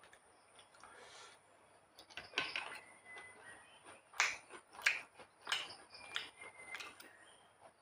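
Faint close-up eating sounds: scattered wet clicks and smacks of a mouth chewing with closed lips, the loudest ones a little past four and five seconds in.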